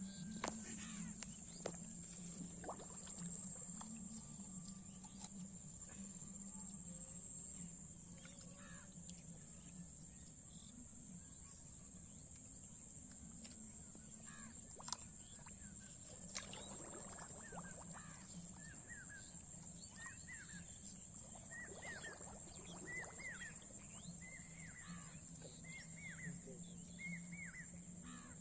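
Outdoor paddy-field ambience: a steady high-pitched hiss and a low steady hum throughout, with a few clicks in the first half. In the second half birds call, short falling calls repeating about once a second.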